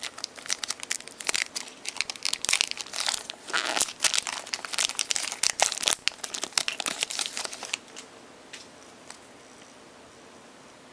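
A trading card pack wrapper being torn open and crinkled in the hands: a dense run of crackles that stops about eight seconds in.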